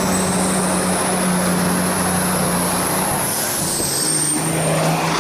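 A vehicle engine running hard at steady revs, with a steady low drone and a high whistle that rises near the start and drops about three and a half seconds in.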